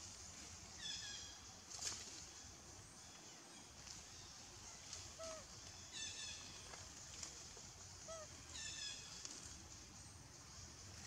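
Faint bird calls: a quick, high chattering phrase repeated three times, a few seconds apart, with a couple of short, lower whistled notes in between.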